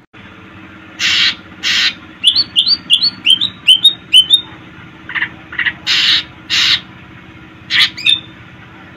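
Cucak ijo (green leafbird) singing: pairs of harsh rasping notes, between them a quick run of about nine short rising chip notes, then more harsh notes and a final rising note near the end.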